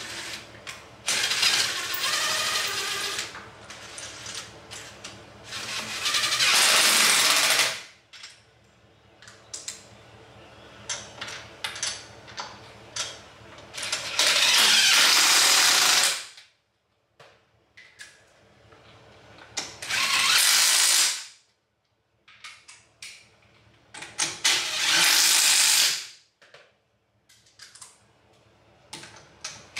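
Refinishing work on a car wheel rim: repeated bursts of loud hissing noise lasting one to two seconds each, with clicks and clatter between the bursts.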